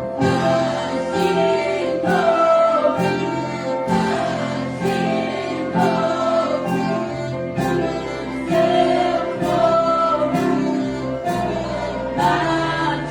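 A church orchestra of strings and winds playing a Christian worship song with a steady beat, with a choir singing.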